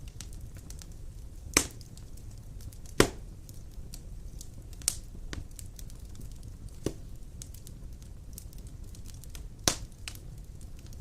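Wood fire of large logs burning, a steady low rumble of flame with scattered small crackles and five louder sharp pops, the strongest about a second and a half and three seconds in and near the end.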